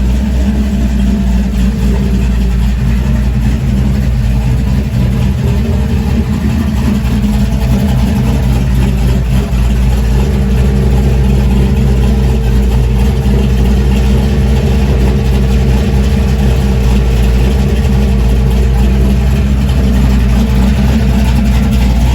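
Built V8 engine of a Chevrolet Monte Carlo SS Aerocoupe running loud and steady at idle.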